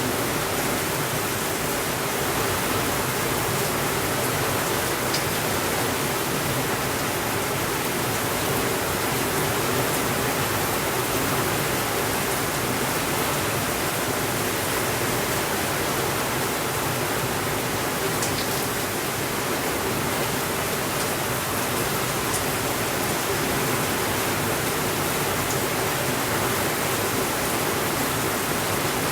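Steady rainfall, an even hiss of rain that does not change in level, with a few faint clicks here and there.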